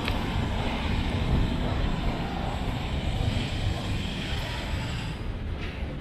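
Steady low rumble of vehicle noise from the city, thinning out about five seconds in.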